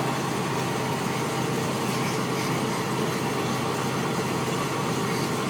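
Bus engine running steadily with an even, unchanging hum.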